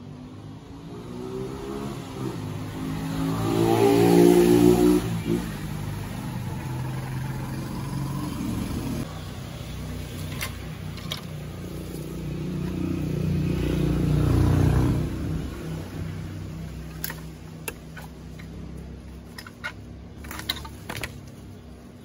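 A motor vehicle's engine passing by twice, each pass swelling to a peak and then fading away. A few light clicks follow near the end.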